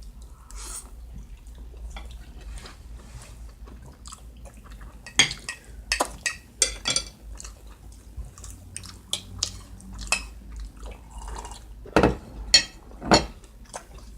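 A fork clinking and scraping against a plate while eating huevo con chorizo, with scattered sharp clicks, the loudest three near the end.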